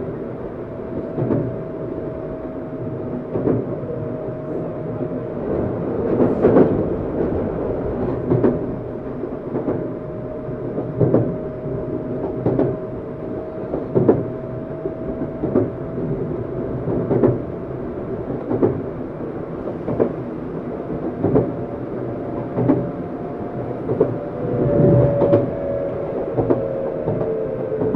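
Tokyu 7700-series electric train heard from inside the car: wheels knocking over rail joints about every one and a half seconds, under a steady motor whine. The whine falls in pitch near the end as the train slows.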